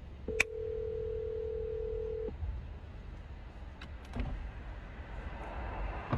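Phone ringback tone from an outgoing call that has not yet been answered: a steady tone rings for about two seconds, pauses for about four, then rings again. There are a couple of faint clicks in the pause.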